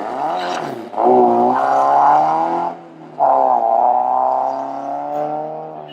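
Car engine revving hard as the car pulls away: a short blip, then two loud pulls of throttle with a brief lift about three seconds in between. The car is pulling out aggressively and nearly spins.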